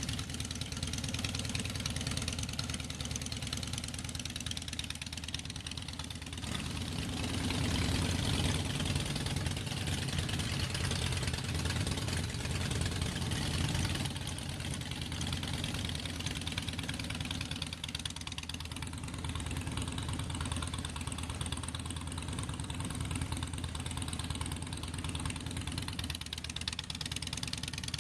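Motorcycle engine running at idle with a fast, even pulse, growing louder for several seconds in the middle before settling back.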